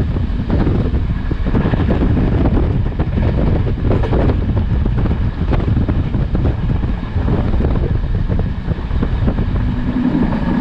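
Class S13 diesel multiple unit running, a steady loud rumble with heavy wind buffeting on the microphone.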